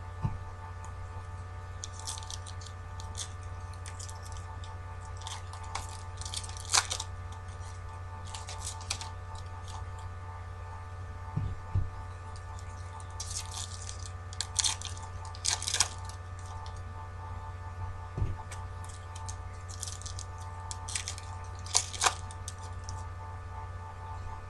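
Trading-card pack wrappers crinkling and tearing and cards being handled in short, scattered bursts, over a steady electrical hum.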